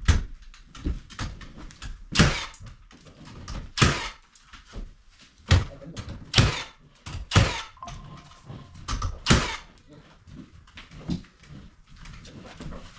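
Irregular loud knocks and thuds, about a dozen of them, several with a short scraping tail, as of work with tools and building materials.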